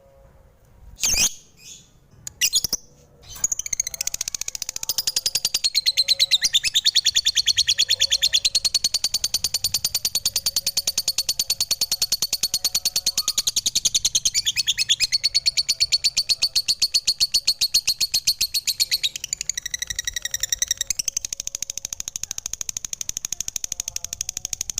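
Lovebird chattering: a few short separate calls, then from about three seconds in a long, fast, unbroken run of high chirps.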